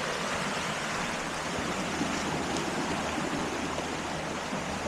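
Steady rushing of the flood-swollen Obed River, fast-moving high water after heavy rain.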